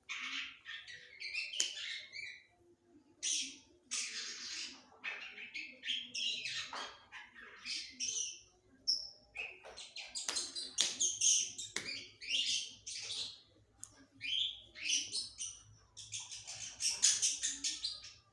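A bird singing: a run of quick, high chirps and trills in short phrases separated by brief pauses.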